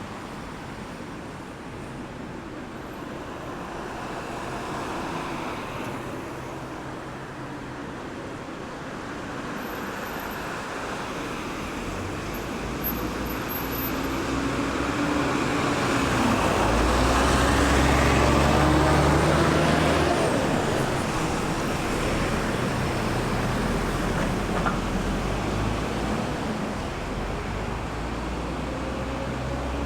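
Road traffic at a roundabout: a steady wash of tyre and engine noise from passing vehicles. It swells in the middle as a heavy vehicle's low engine drone passes close by, loudest just past halfway, then eases off.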